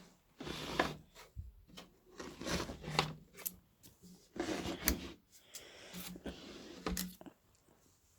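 Knocks, clicks and short scrapes from a subwoofer's wooden cabinet and parts being handled and worked loose during disassembly.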